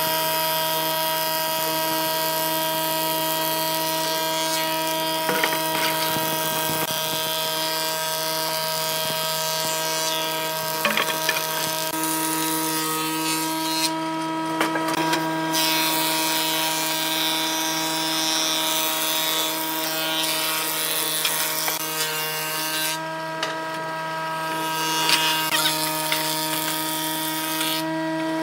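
Woodworking power tool motor running steadily with a constant hum and hiss, and scattered small clicks and knocks of the tool working wood.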